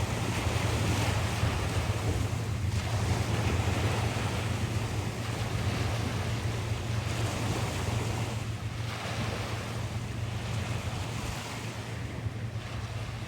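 Surf breaking and washing up a beach, swelling and fading every few seconds, with steady wind rumble on the microphone.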